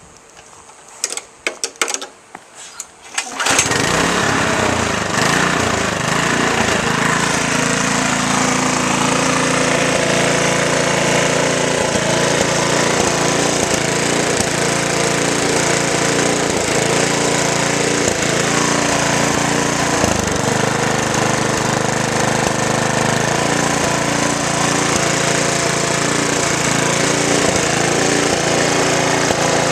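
Lawn mower engine running with no blade fitted: a few short clatters as it is started, then it catches about three and a half seconds in and runs steadily. It runs a little rough, as it does without the blade.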